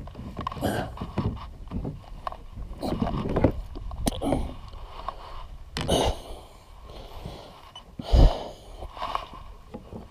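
Irregular knocks, bumps and rubbing of gear being handled in a kayak, with one heavy thump about eight seconds in.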